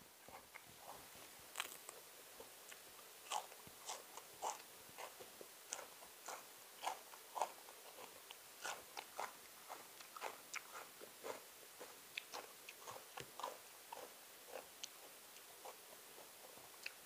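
A person eating by hand: irregular crisp crunches and chewing sounds, a few a second, from biting raw shallot and spicy canned-fish salad.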